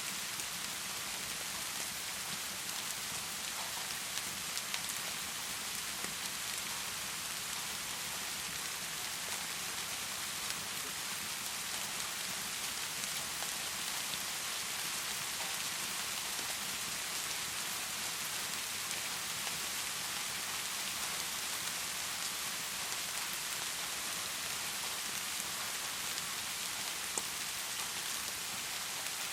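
Heavy rain falling steadily, with a few faint, scattered ticks of individual drops or pops in it.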